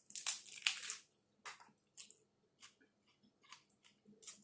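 A person chewing a mouthful of taco: a run of loud, wet chewing in the first second, then softer single chews about every half-second to second.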